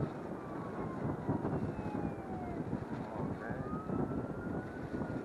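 Wind buffeting the microphone, with a faint distant motor whine that slowly falls and then rises in pitch.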